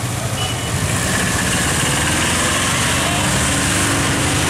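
A vehicle engine running steadily under a loud, even hiss of road noise.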